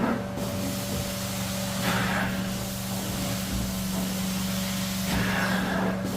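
Carpet extraction cleaning: a steady machine hum under a hiss of spray and suction that swells with each wand stroke, three times.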